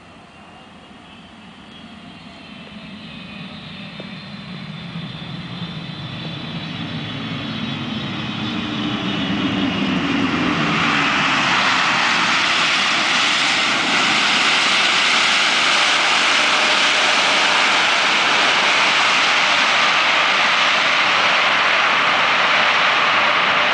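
Boeing 777-300ER's GE90 jet engines approaching on landing: a high fan whine slowly falling in pitch over a low rumble, growing steadily louder. About ten seconds in it gives way to a loud, steady jet roar.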